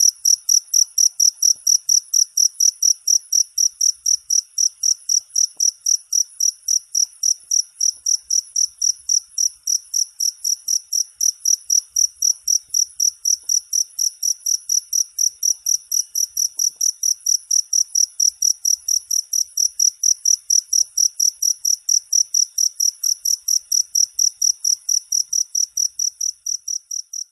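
Cricket chirping in a steady, even rhythm of high-pitched pulses, about four a second.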